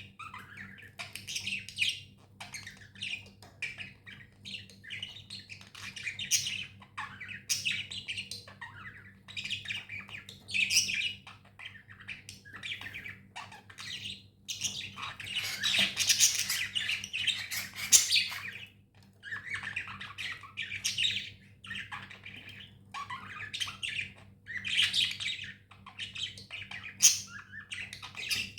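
Pet budgerigars chirping and squawking in quick short calls, the chatter growing dense and continuous for a couple of seconds around the middle.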